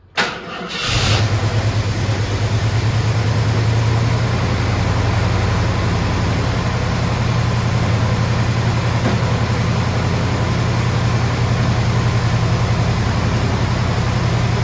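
1974 AMC Javelin engine started: a brief burst of cranking right at the start, catching within about a second, then idling steadily with an even low pulse.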